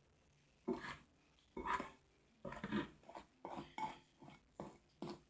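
Sticky homemade slime being stirred in a bowl: a run of short, faint stirring sounds, one every half second or so, starting just under a second in.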